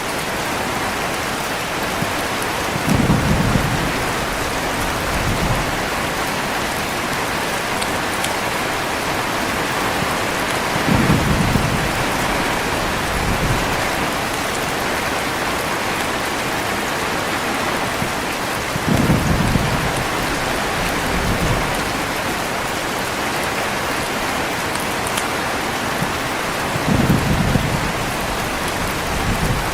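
Steady heavy rain with low rumbles of thunder that come about every eight seconds, four in all, each trailed by a fainter second rumble.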